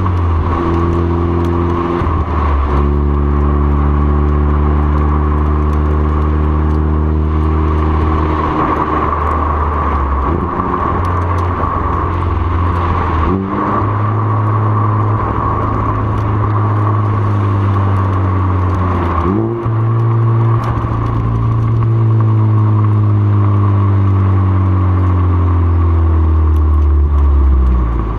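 2013 Ford Focus ST's turbocharged four-cylinder engine running through a CNT catback exhaust and 3-inch catless downpipe. It holds steady engine speeds that change pitch a handful of times, with two quick rising blips, and its pitch falls slowly over the last several seconds.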